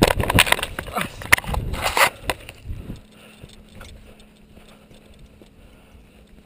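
Loud, gusty wind buffeting and rattling on the camera microphone as a skydiver leaves the An-2's door. It cuts off abruptly about three seconds in, leaving only a faint steady hum.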